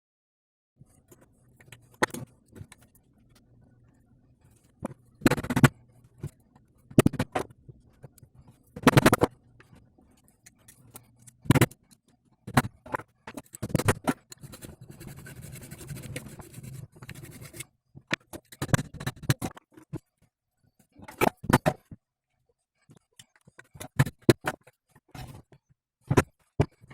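Hand work on a driveshaft universal joint: a string of sharp metallic knocks and clinks, irregularly spaced, with some scraping. A faint low hum runs under the first two-thirds and stops about two-thirds of the way through.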